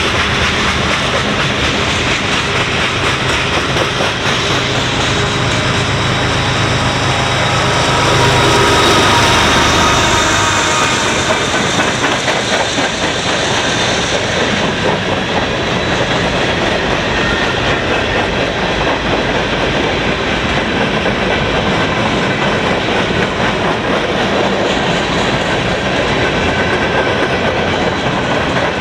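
Freight cars of a long CN freight train rolling past at low speed, steel wheels clacking over rail joints over a steady rumble. There is a brief swell in loudness about eight to ten seconds in.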